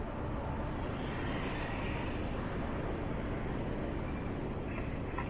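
Steady traffic noise from a busy downtown street.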